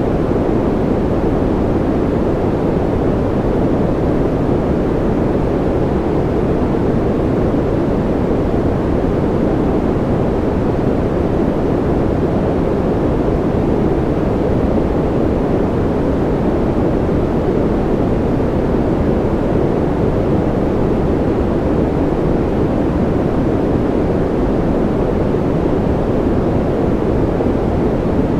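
Continuous, unchanging generated noise of the 'white noise' kind, deep and muffled rather than hissy, with no drops, clicks or changes.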